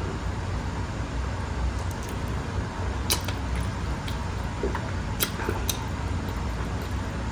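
Steady low rumble of background noise, with a few sharp clicks about three and five seconds in.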